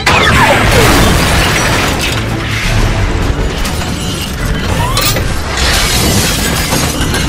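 Added battle sound effects: a blaster zap whose pitch falls over about a second, then booming explosions and crashing debris, with a short rising zing about five seconds in, all over background music.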